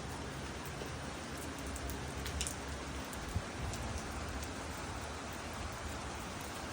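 Light rain falling steadily: an even hiss with a few sharper drop ticks.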